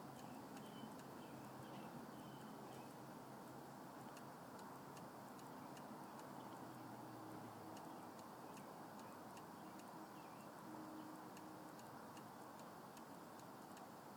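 Faint, irregular ticking of a vehicle's engine and exhaust metal contracting as they cool after the engine has been switched off, over a low hum that stops about eight seconds in.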